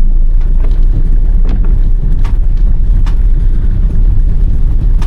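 Inside the cabin of a 1993 Toyota Corolla 2.0 diesel driving slowly in low gear over a rough, muddy dirt road: a steady low engine and road rumble, with a few short knocks from the car going over bumps and holes.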